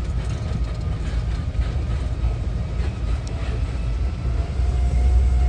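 Steady low rumble of a moving vehicle, with scattered small rattles and clicks.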